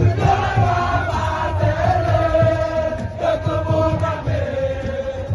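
Voices chanting a long, drawn-out melody over music with a repeated low beat.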